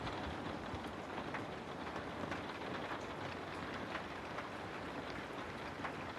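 Steady rainfall, a constant patter with scattered individual drops ticking on a surface.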